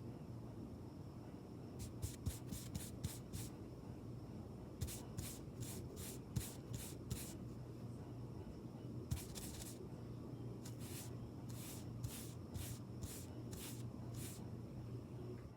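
Makeup brush strokes rubbing close to the microphone: quick swishes in runs of six to eight, about four a second, with short pauses between runs. A low steady hum sits underneath.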